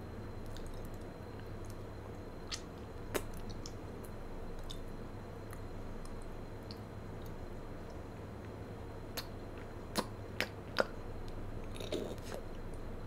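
Close-up mouth sounds of chewing a chocolate-coated marshmallow bear: soft, squishy chewing with sharp wet clicks and smacks, a couple early and a quick cluster of four about nine to eleven seconds in, over a steady low hum.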